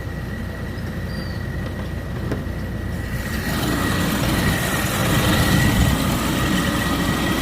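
1996 Chevy S10 engine idling with the AC on, with a steady high whine over the running. It gets louder and fuller about three seconds in.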